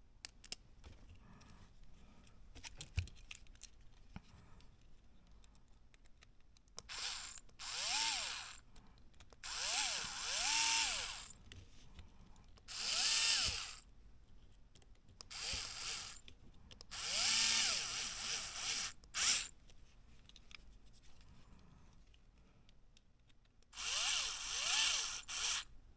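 Small handheld electric rotary tool grinding away at the rough edge of a freshly cut Mini 4WD part to clean it up. After several seconds of faint handling clicks, it runs in a series of short bursts, each spinning up and winding down.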